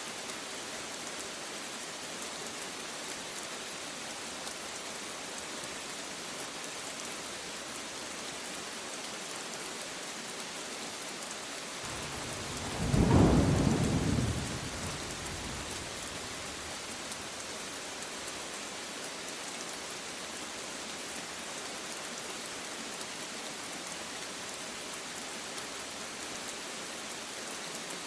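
Steady rain falling, with a single clap of thunder about halfway through: a loud low rumble that peaks quickly and dies away over two or three seconds.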